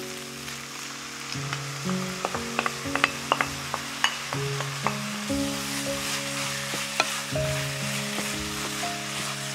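Beef mince sizzling in a hot frying pan as a soy-based sauce is poured in and stirred with a wooden spatula, with a cluster of sharp clicks of the spatula against the pan a few seconds in and one more later. Soft background music with held notes underneath.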